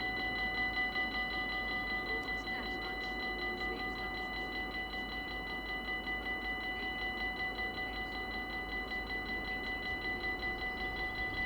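Dutch level-crossing warning bell ringing at a steady fast rhythm of about three strokes a second, each stroke's ring running into the next.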